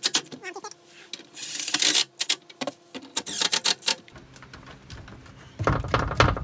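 Irregular clicking and knocking of hand tools on bolts, a quick run of sharp clicks for about four seconds. Near the end a louder, deeper sound starts.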